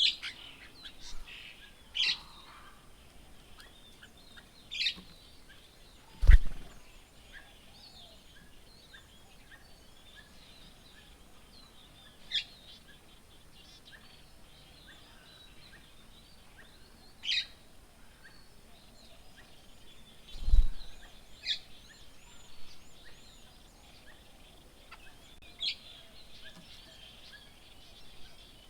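Wild birds calling, with short sharp calls every few seconds over faint steady chirping. Two low thuds sound about fourteen seconds apart and are the loudest sounds.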